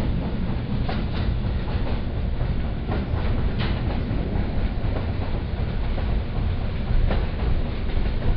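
Steady low rumble of a PKP passenger carriage running along the line, heard from inside the coach, with a few sharp clacks of the wheels over rail joints at irregular moments.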